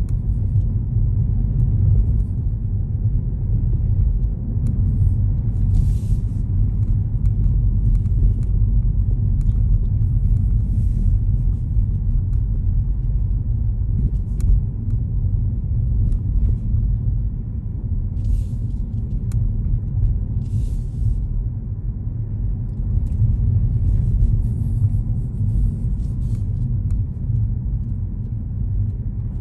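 A car driving, with a steady low road and engine rumble and a few brief faint hisses now and then.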